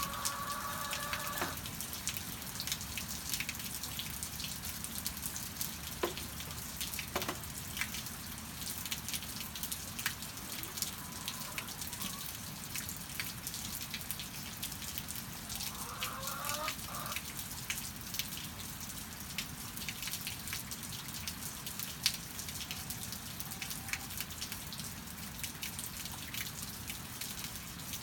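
Steady rain pattering and dripping, with many small sharp drops. A hen gives a short call at the start and again about halfway through.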